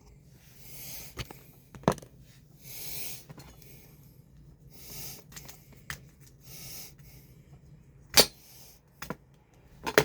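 A person breathing audibly close to the microphone, a soft hissing breath about every two seconds, with a few sharp clicks from handling things, the loudest a little after eight seconds in.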